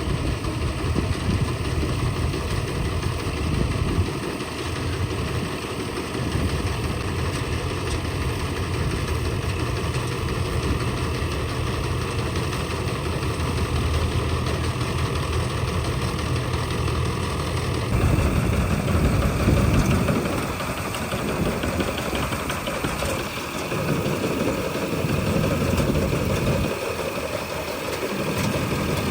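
Combine harvester's diesel engine running steadily with machinery noise; about two-thirds of the way through the sound changes abruptly.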